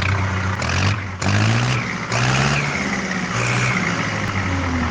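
Mahindra 475 tractor's diesel engine running just after starting, its pitch rising and falling as it is revved up and down.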